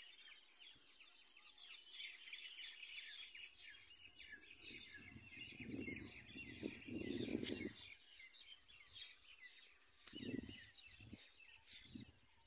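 Small birds chirping and calling, many short overlapping chirps, faint overall. Low, dull rumbles break in around the middle, the loudest part, and again near the end.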